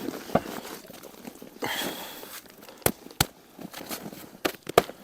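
Rustling and scraping from handling a soil-filled potato grow bag, with about five sharp clicks or knocks, the loudest near the end.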